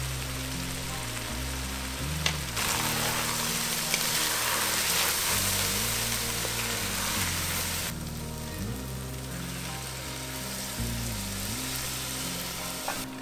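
Chopped vegetables and flour sizzling in an enamelled Dutch oven while being stirred with a wooden spoon, the flour cooking into the vegetables. The sizzle swells about two seconds in while the stirring is going, then settles back a few seconds later, with a few light clicks of the spoon.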